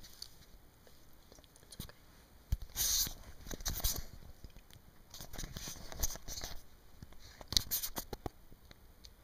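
Scattered light knocks and short bursts of rustling, loudest about three to four seconds in and again near eight seconds.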